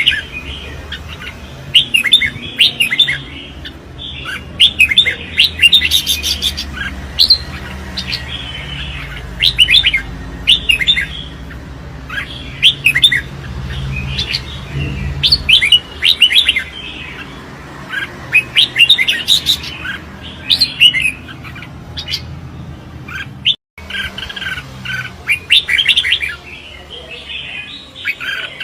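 Red-whiskered bulbul in competition song: loud, short bright chirped phrases repeated every second or two.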